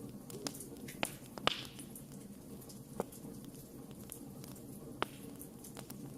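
Campfire burning, with a steady low rumble and sharp crackling pops from the wood: about five in all. The loudest, about a second and a half in, is followed by a short hiss.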